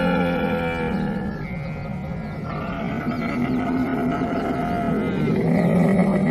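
Camel vocalising in long, continuous calls, louder near the end.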